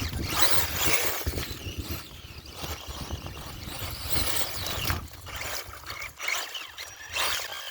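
Axial Wraith RC truck with a Castle Creations brushless system driving through mud and water: motor whine rising and falling, with splashing. Wind buffets the microphone throughout.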